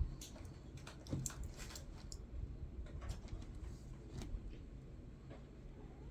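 Faint, scattered clicks and taps of small plastic parts being handled, as a tight plastic container lid is worked at, over a low steady room hum.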